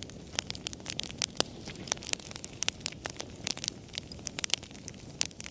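Wood fire burning in a fireplace: a steady low rumble of flames with many irregular sharp crackles and pops of the burning logs.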